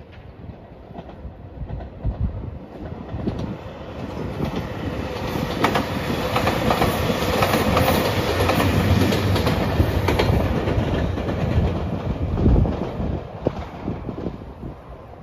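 JR Shikoku 2700 series diesel limited express train passing, its wheels clacking over rail joints; the sound builds to its loudest in the middle as the train goes by, then fades.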